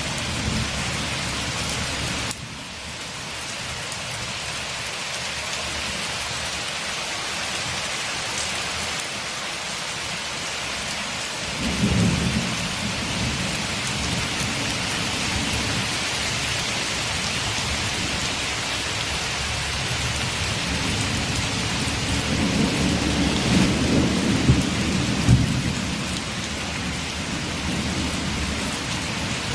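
Steady rain falling on a window, a constant hiss of drops, with low rolls of thunder rumbling about twelve seconds in and again for several seconds past the twenty-second mark.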